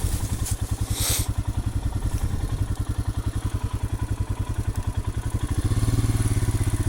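2020 Royal Enfield Himalayan's 411 cc single-cylinder engine running at low revs with an even, steady beat, growing a little louder about five and a half seconds in as more throttle is given.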